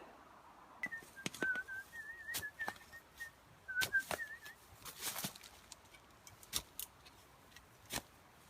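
A few short warbling whistled notes near the start, over scattered sharp knocks and scrapes from digging out a fire pit.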